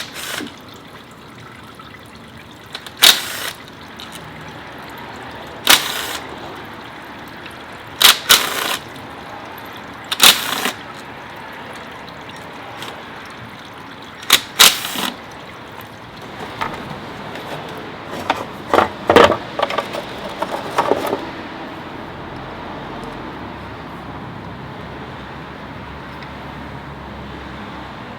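Old fluid draining in a steady trickle out of an Audi A6's 0CK transmission into a pan, the first step of a preventive transmission-oil change; the trickle eases about three-quarters through. Sharp clacks of tools on metal come every few seconds, bunched together around two-thirds through.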